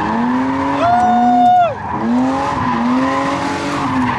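Drift car engine revving hard with its tyres squealing; about a second in the engine climbs to a high held pitch, then drops off sharply under a second later.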